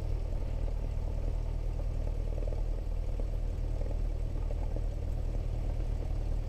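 Cessna 172S's four-cylinder Lycoming engine and propeller running steadily at low taxi power, heard from inside the cockpit as an even low hum.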